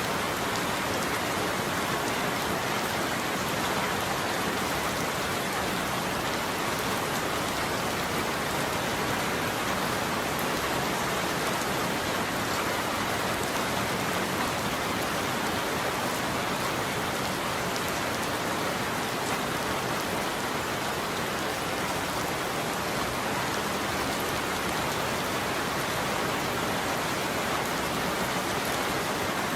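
Steady heavy rain falling, an even dense hiss of drops with no thunder and no change in strength.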